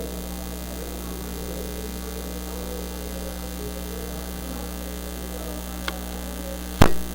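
Steady electrical mains hum in the recording's audio chain, with a faint low murmur under it. A small click comes late on, then one loud sharp click just before the end.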